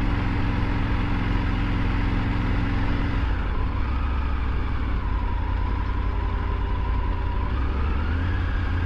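Triumph Tiger 900 GT's three-cylinder engine running at low road speed. The engine note drops about three seconds in and rises again near the end.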